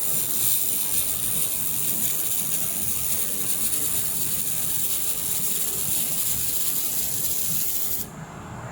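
Handheld air-cooled laser welder in use on a weld pass: a steady, high hiss from the torch that cuts off suddenly about eight seconds in.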